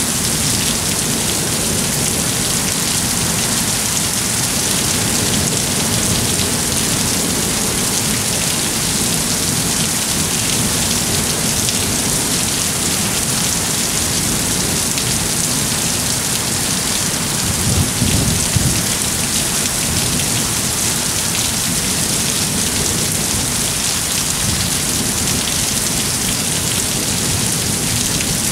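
Heavy monsoon thunderstorm rain pouring steadily, with a brief low rumble about two-thirds of the way through.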